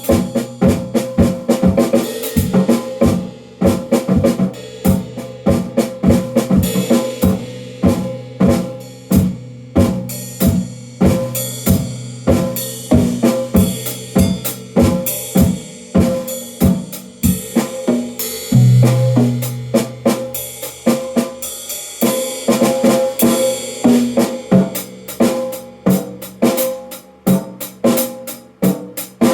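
Drum kit played in a steady rhythm, about two to three strikes a second, over sustained low notes that change pitch about two-thirds of the way through.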